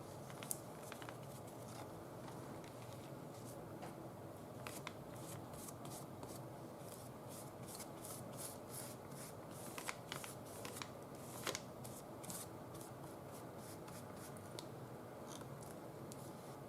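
Faint scattered clicks and rustles of paper and small craft tools being handled, with no steady rhythm.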